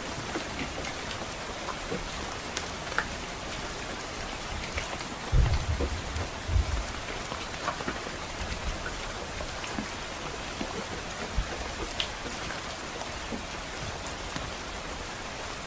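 Steady rain with scattered sharp fire crackles, and a brief low rumble of distant thunder about five seconds in.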